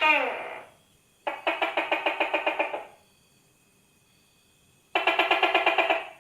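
Tokay gecko calling: a sharp call that falls in pitch right at the start, then two rapid rattling trains of about seven pulses a second, the first lasting about a second and a half and the second about a second.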